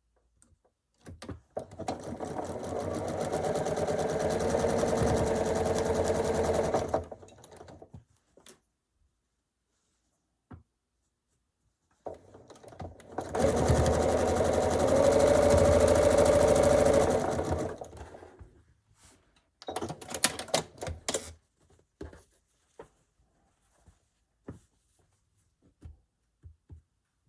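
Sewing machine stitching a seam in two runs of about five seconds each, with a pause between, followed by scattered short clicks and taps.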